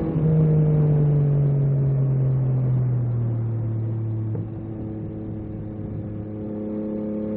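A 2022 Yamaha MT-09 SP's three-cylinder engine running through an Akrapovic carbon racing exhaust while riding. There is a brief break in the note right at the start. The engine speed then falls away over a few seconds as the bike rolls off, holds low and steady for a while, and rises again near the end as the throttle opens.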